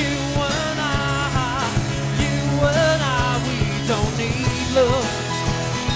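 Rock song with a singer holding wavering notes over bass, guitar and a steady drum beat.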